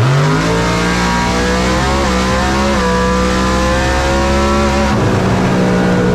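Race car engine at full throttle, its pitch climbing at the start and holding high, with small drops in pitch about two, three and five seconds in, like gear changes.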